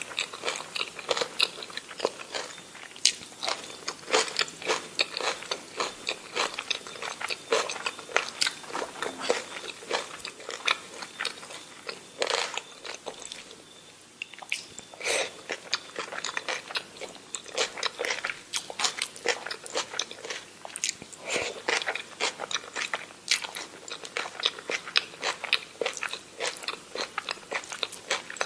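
Close-miked eating sounds: a person chewing and biting food, with a dense run of wet mouth clicks and smacks and a short lull about halfway through.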